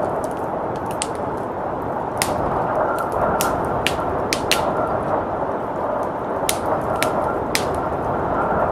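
Wood fire crackling with irregular sharp pops over a steady rush of blizzard wind.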